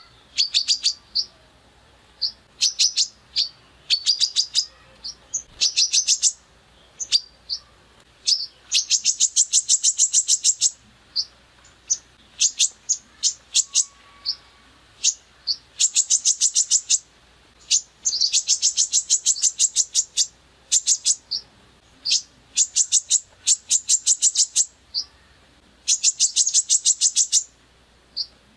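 Songbird giving harsh, rapid 'tembakan' volleys: repeated bursts of fast, evenly spaced high notes, each burst lasting one to two seconds, with short single chirps between them.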